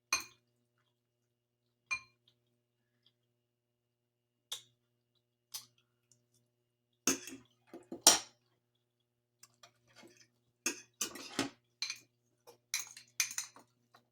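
Scattered clinks and knocks of cutlery against dishes during a meal. There are single taps at first, a louder clatter around seven to eight seconds in, and a quicker run of clinks from about ten seconds on.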